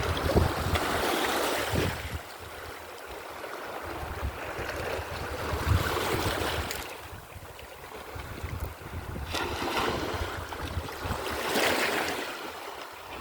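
Mediterranean Sea waves breaking and washing in, swelling and ebbing about every four to five seconds, with wind rumbling on the microphone.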